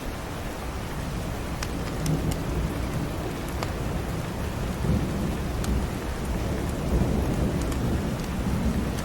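Steady rain with low rumbles of thunder swelling up a few times. A wood fire in a fireplace gives sharp crackles and pops now and then.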